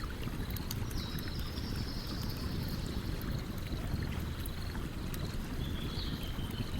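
Stream running with a steady low rush, with scattered light crackles and pops from a campfire over it. Two faint, high, drawn-out tones come through, one about a second in and one near the end.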